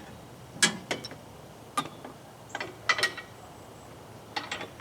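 A homemade storage bar being fitted into its mounts on a compact tractor: about six sharp knocks and clicks at uneven intervals, two of them close together about three seconds in.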